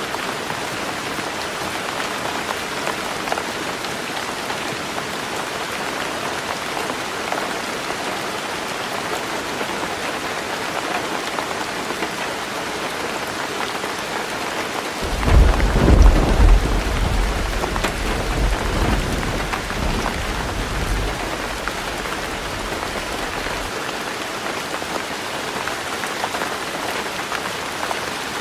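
Heavy rain falling on a roof, a steady hiss. About halfway through, a roll of thunder rumbles in suddenly, loudest for a moment and then dying away over several seconds.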